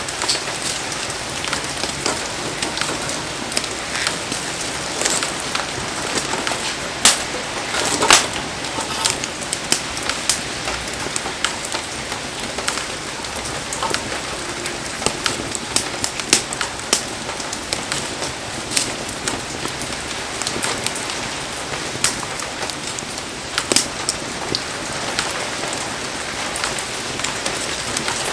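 Heavy rain falling steadily as a dense hiss, with frequent sharp pops and ticks scattered irregularly through it.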